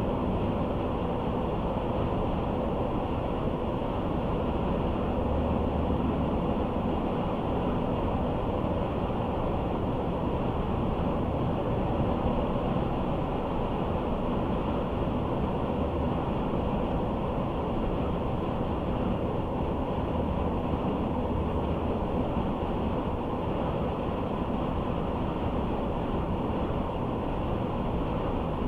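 Steady road noise from a moving car: tyre rumble and engine drone heard from inside the cabin.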